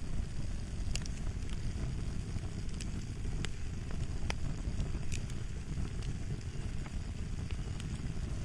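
Crackling fire: a steady low rumble of flames with irregular sharp pops and snaps.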